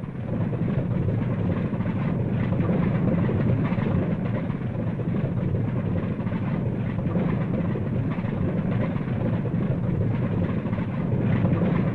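A propeller airliner's piston engines running steadily as the plane taxis out, a continuous low drone.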